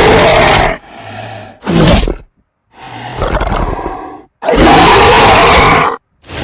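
Monster roar sound effects: three loud growling roars, the longest about a second and a half near the end, with quieter rumbling growls between them and brief silences.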